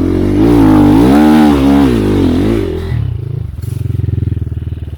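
Off-road enduro motorcycle engine revved hard, its pitch rising and falling several times in quick succession, then dropping to a steadier, lower running note about three and a half seconds in.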